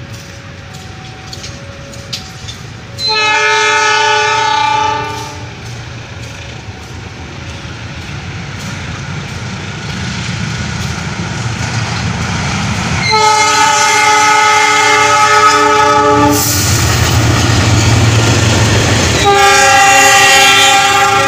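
Passenger train approaching and passing, its locomotive's horn sounding three blasts of two to three seconds each: one about three seconds in, a longer one around thirteen seconds, and another near the end. Under the horn, the train's rumble grows steadily louder as it comes by.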